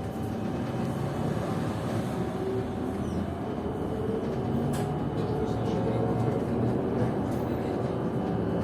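PKTS-6281.01 'Admiral' trolleybus heard from inside while under way: steady running and road noise with thin, steady electrical whine tones, slowly growing a little louder. Two short clicks or knocks come about halfway through.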